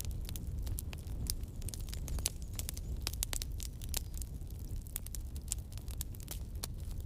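Campfire burning: wood crackling and popping in irregular sharp snaps over a low, steady rumble of the flames.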